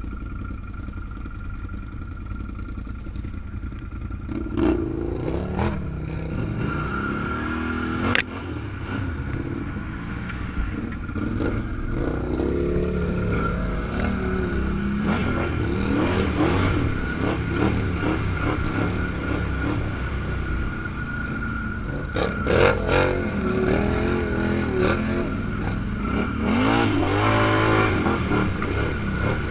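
Off-road vehicle engine revving up and down while driving over rough ground, with a steady whine and several sharp knocks and clatter as the vehicle bounces.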